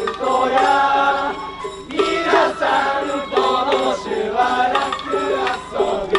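Festival float music with a group of voices singing together in phrases over a steady held note.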